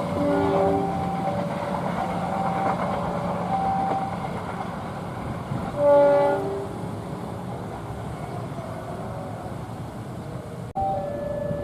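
A passenger train passing with a steady rumble. Its locomotive horn sounds briefly just after the start, then gives a louder chord blast about six seconds in. A two-tone level-crossing warning alarm alternates steadily behind it.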